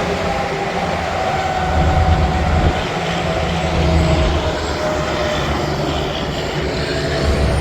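Heavy interstate traffic with tractor-trailers passing: a steady rush of tyre and engine noise with a deep rumble, swelling as trucks go by.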